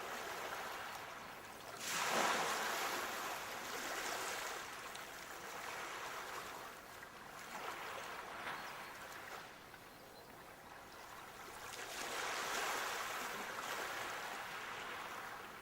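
Sea waves breaking and washing up the shore in slow surges: a loud one about two seconds in, a lull a little past the middle, and another swell of surf near the end.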